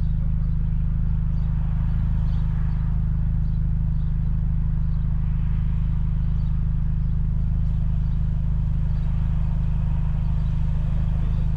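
Honda Civic Type R's K20 four-cylinder engine running at a steady note through a new Injen stainless exhaust, a constant low drone with no revving.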